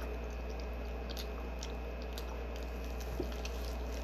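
Faint wet eating sounds of a person chewing seafood-boil shellfish, with a few scattered soft smacks and clicks. Under them runs a steady low hum.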